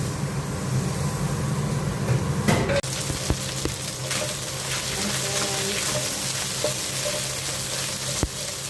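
Breadcrumb-coated chicken pieces frying in oil and melted butter, with a steady sizzle. A couple of sharp knocks come about two and a half seconds in and again near the end.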